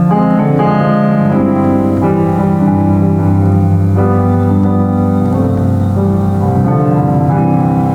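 Solo piano playing a hymn tune in full, sustained chords, the melody over a steady bass line.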